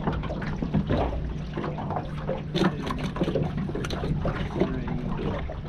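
Water splashing and trickling in short, irregular splashes over a steady low hum.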